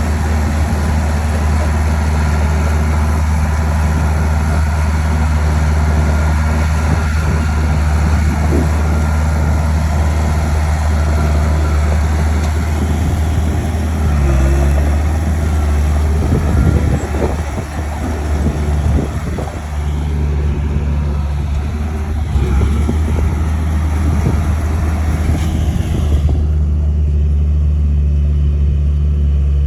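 Bulldozer diesel engine running steadily with a deep hum, with scattered knocks around the middle.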